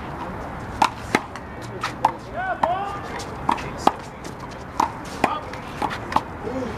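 Handball rally with the big blue rubber ball: about ten sharp slaps of palms on the ball and the ball off the wall, coming irregularly one to three a second.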